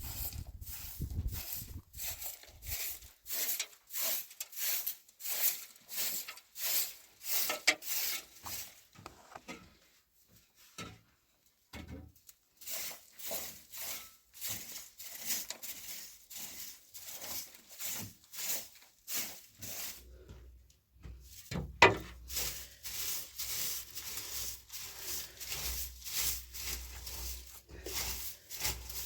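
Rhythmic scraping or rubbing strokes, about two a second, stopping for a couple of seconds about ten seconds in and then resuming, with one sharper knock a little past twenty seconds.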